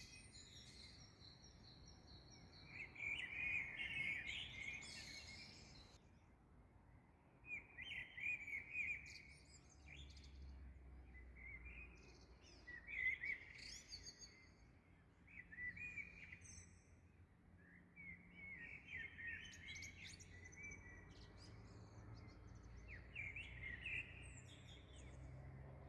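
Songbirds chirping and twittering in short, scattered phrases, several bursts every few seconds, over a faint low background rumble.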